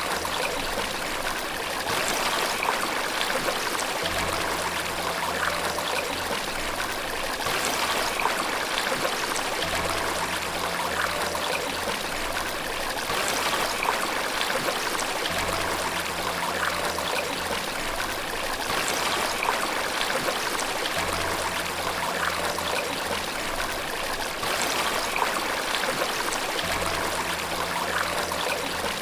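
Steady running water, as from a waterfall or stream, fills the sound throughout. Soft, low sustained piano notes sound faintly underneath, returning every few seconds.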